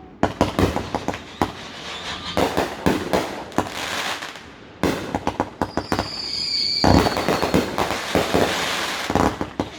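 Fireworks going off in quick succession, a dense run of bangs and crackles. About six seconds in a high whistling firework sounds for about a second, and a loud bang cuts it off.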